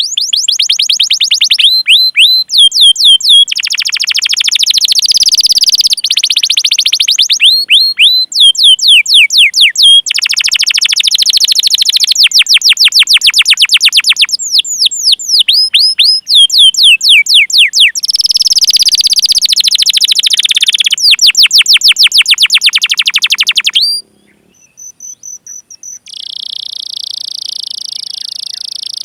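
Domestic canary singing loudly: long runs of rapid, repeated downward-sweeping 'cuit cuit' chirps alternating with buzzy rolls. The song breaks off briefly about three-quarters of the way through, then resumes as a steady, very fast trill.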